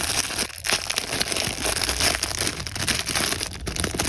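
Plastic toy packaging crinkling steadily as it is handled and opened.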